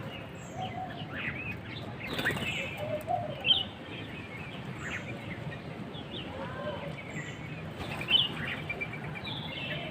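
Birds chirping: many short, high chirps scattered through, one or a few at a time.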